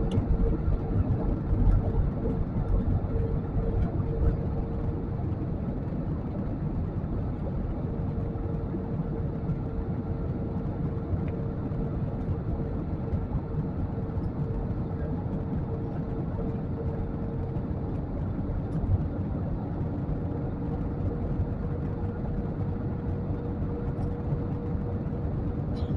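Steady cabin noise inside a jet airliner in flight: a constant rushing roar of engines and airflow with a steady hum tone running through it.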